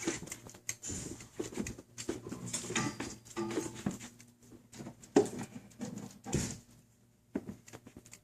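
Scraping, shuffling and knocking from a knock-down glass showcase being tipped back upright and set on its feet, with one sharp knock about five seconds in. The noise dies down near the end.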